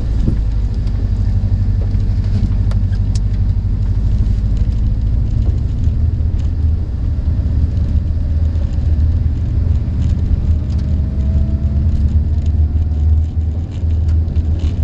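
Cabin sound of a 2002 Subaru WRX on the move: a steady low rumble from its turbocharged flat-four engine and the tyres. A faint whine slowly rises in pitch in the second half.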